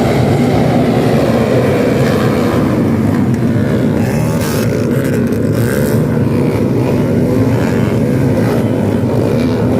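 Dirt bike engines revving up and easing off over and over as riders race around a supercross track.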